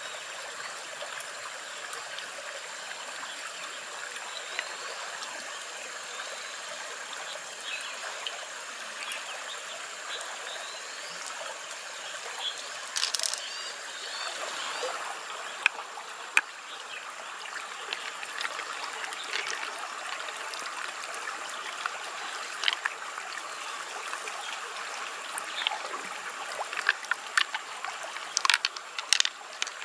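Water trickling and lapping steadily, with scattered small splashes and drips that come more often near the end.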